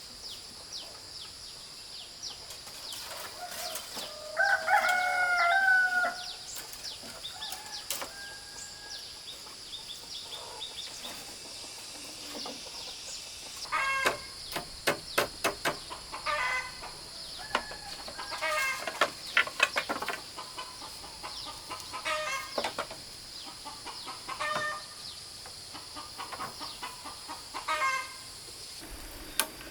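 A rooster crows once, about four seconds in, then chickens cluck in quick runs through the middle, over a steady high-pitched drone.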